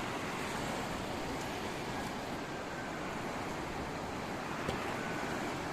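Steady wash of sea surf with wind on the microphone, with a faint click near the end.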